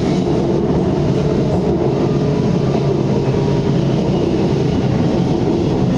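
BTS SkyTrain running along its elevated track: a steady, even running noise with no changes.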